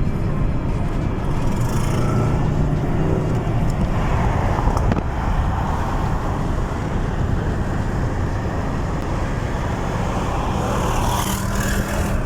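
A car being driven, with steady engine and road noise.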